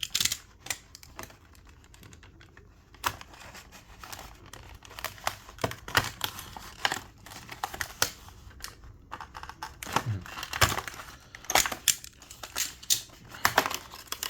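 Plastic blister packaging being cut open with a knife and pulled apart: an irregular run of crackles, sharp clicks and tearing, busier in the second half. The knife blade is getting blunt.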